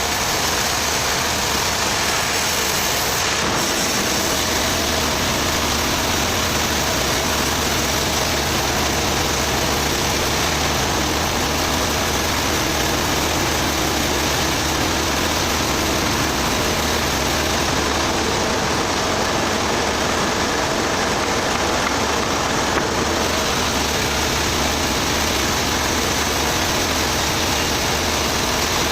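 An engine running steadily at an even speed, with a dense hiss of machinery noise over it.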